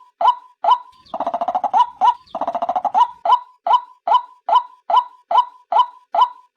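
Female white-breasted waterhen call played as a bird lure: loud, evenly repeated short 'kwak' notes, about two and a half a second. About a second in, two rapid stuttering, gurgling runs of notes break in before the steady calling resumes.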